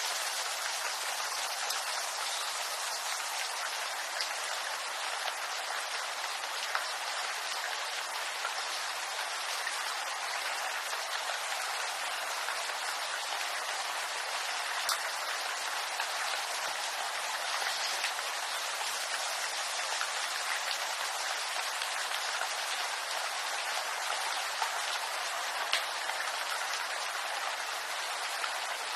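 Steady rain falling on bamboo leaves, a dense even patter with occasional louder single drops.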